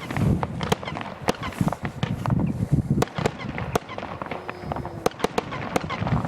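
Röder Crossette XXL Blau category F2 firework going off: many sharp cracks in quick, irregular succession over a low rumble as the crossette stars split.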